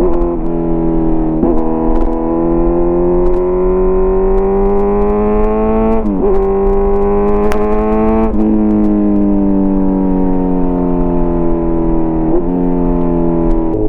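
Kawasaki Z900 inline-four running through an SC Project CRT aftermarket exhaust while riding. The engine note climbs slowly under throttle, broken by quick dips at gear changes, then falls gradually over the second half as the bike slows.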